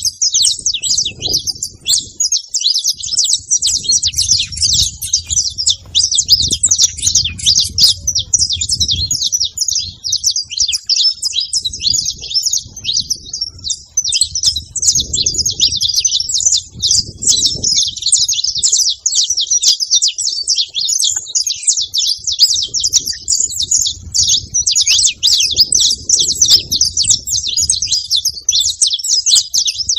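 Several saffron finches (canários-da-terra) chirping and singing together in a dense, unbroken chorus of quick high notes.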